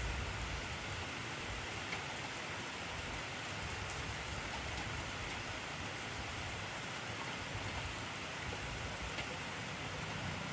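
Steady, intense rainfall: an even hiss of rain on surfaces with a few faint drop ticks.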